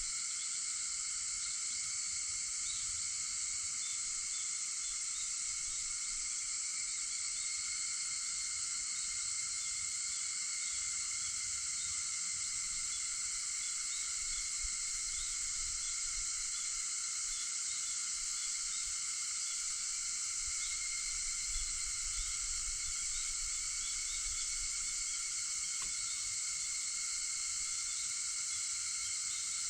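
A chorus of cicadas droning steadily without a break.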